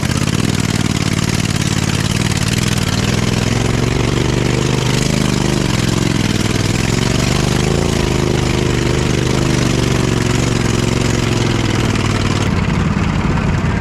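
Small engine of an off-road mud vehicle running steadily, its pitch rising a little about four seconds in and easing back down near the end.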